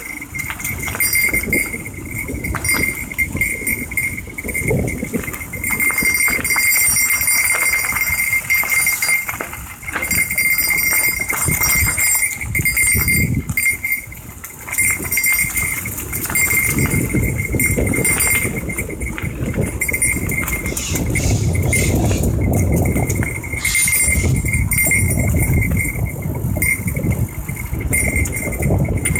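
A small metal bell jingling on and off without pause over a rough, uneven rumble of tyres and wind, as on a mountain bike ridden along a gravel trail.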